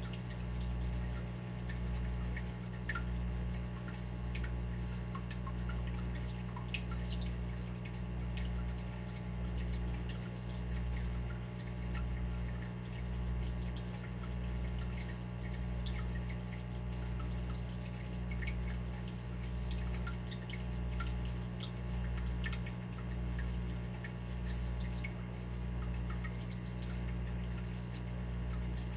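Water dripping, small scattered drips over a steady low rumble that swells and fades about once a second.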